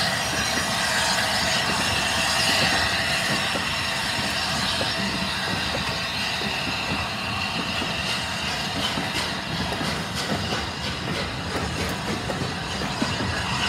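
Heritage-railway passenger coaches rolling past at close range: a continuous steady rumble from the wheels on the track. A high steady wheel squeal fades in the second half, and the wheels clicking over rail joints grows more distinct toward the end.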